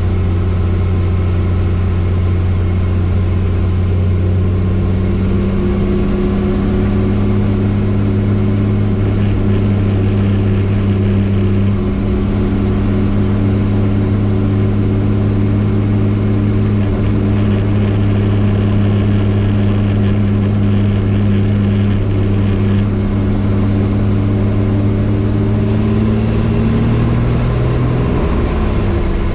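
Helicopter engine and rotor running steadily as a loud, even hum, its pitch rising a little near the end.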